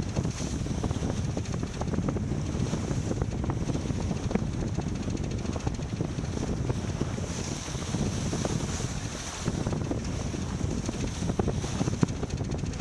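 Wind buffeting the microphone aboard a racing sailboat under way, a continuous low rumble with a steady high hiss. Scattered small clicks and knocks run through it, the sharpest near the end.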